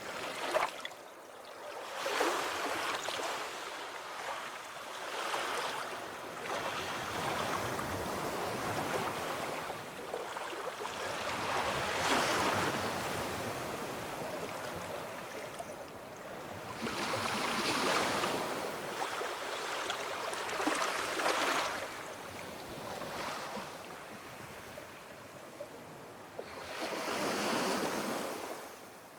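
Ocean waves washing in, a rushing hiss that swells and falls away every few seconds.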